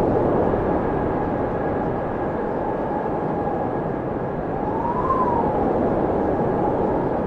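Blizzard wind howling: a dense, steady rush of wind with a whistling howl that rises and falls once about five seconds in.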